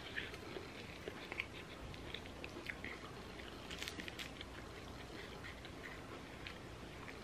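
Faint chewing and mouth sounds of people eating breakfast sandwiches, with scattered soft clicks and a brief cluster of sharper crackles about four seconds in, as a sandwich is handled on its paper wrapper.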